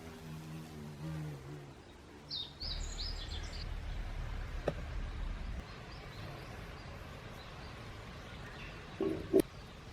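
A few short bird chirps over quiet background noise. A low pitched hum fades out at the start, and two short knocks come near the end.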